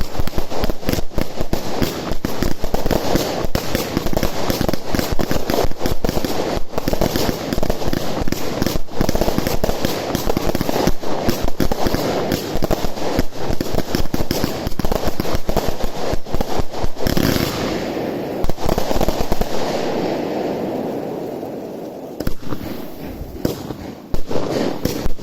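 Compound of consumer firework cakes firing: a rapid, continuous stream of launch thumps and bursts for about seventeen seconds, then one big burst followed by a fading crackle, with fresh shots starting just before the end.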